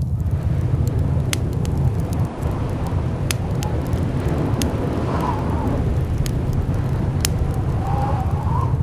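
Blizzard wind blowing steadily with a deep low rumble, whistling with a brief rising tone twice, over scattered sharp clicks and crackles.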